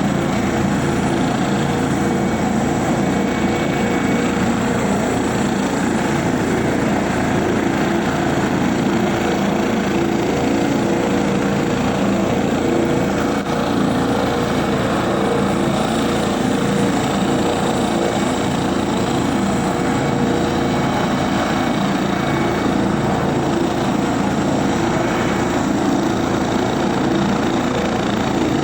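Helicopter engine and rotor noise running steadily, a dense unchanging drone.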